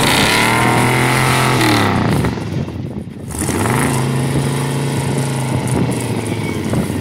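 Straight-piped 6.0-litre V8 of a 1999 Chevy Silverado revved hard twice. Each time the pitch climbs quickly, holds at high revs for a second or more, then drops away.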